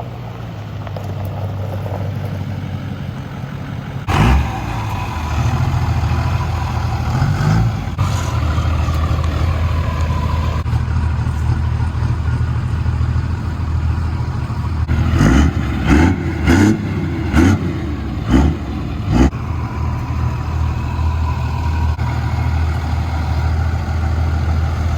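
Pickup truck engine running steadily at a low rumble, with a sharp knock about four seconds in and a quick run of about seven knocks midway through.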